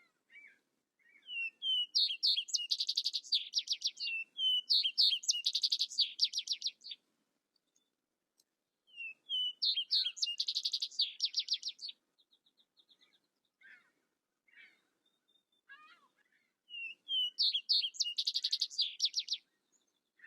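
A songbird singing four phrases several seconds apart, each a few quick rising chirps running into a fast high trill, with a few short chirps between phrases.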